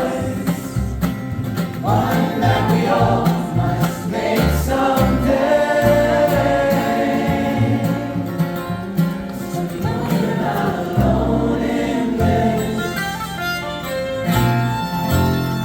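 Live band music: several voices singing in harmony over guitar, with no words picked out.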